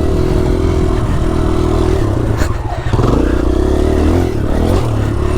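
Motocross dirt bike engine being ridden, its revs falling off about two and a half seconds in, then rising and falling again as the throttle is worked.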